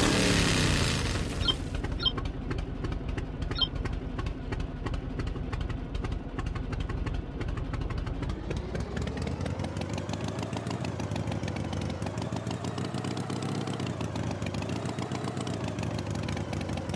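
Tractor engine running steadily with a fast chugging rhythm, its pitch wavering up and down in the second half.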